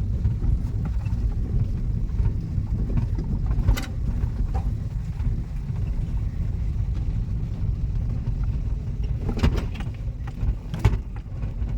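Manual car driving slowly, heard from inside the cabin: a steady low rumble of engine and road noise, with a few brief knocks, one about four seconds in and a couple near the end.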